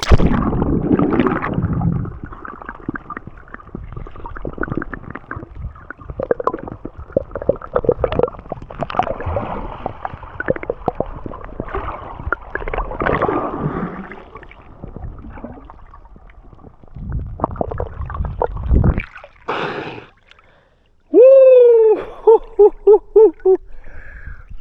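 Water gurgling and sloshing as the body and camera dip into shallow sea water, with muffled bubbling. Near the end, after a short pause, a loud pitched call that rises and falls, pulsing several times.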